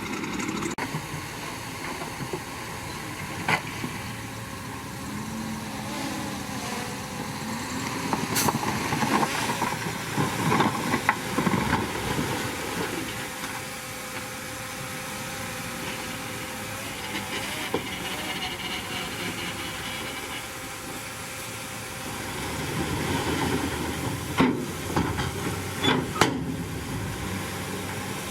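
Crawler bulldozer at work: a steady, hissing diesel engine noise with scattered sharp clanks and knocks. It grows louder and busier twice, about eight to twelve seconds in and again near the end.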